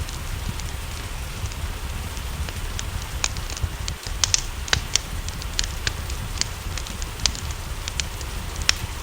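Wood fire crackling, with irregular sharp pops, over a steady hiss of rain and a low rumble.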